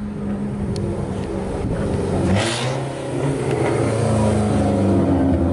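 Car engine running loud, its pitch changing as it is revved and building toward the end, with a brief hiss about two and a half seconds in.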